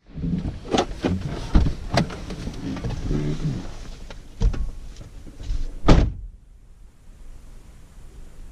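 A series of knocks and thumps, ending in a heavy slam about six seconds in, after which all goes much quieter.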